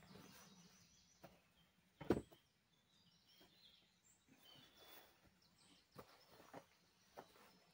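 Near silence in a forest, with faint, sparse bird chirps. There is a single sharp knock about two seconds in and a few faint clicks.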